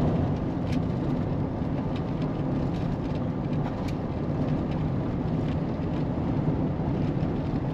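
Steady road and engine noise of a van driving on a dusty gravel road, with faint scattered ticks.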